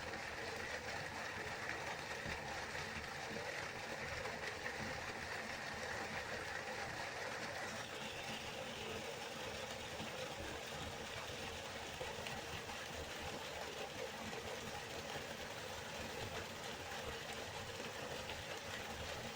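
River water flowing in a steady, even rush, its texture changing slightly about eight seconds in.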